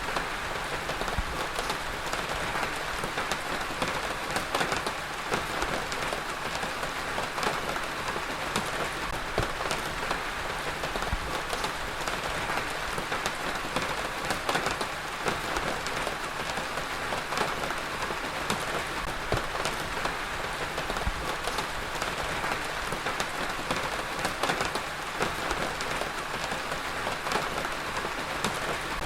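Heavy rain falling steadily, a dense even hiss with many individual drops pattering on a hard surface.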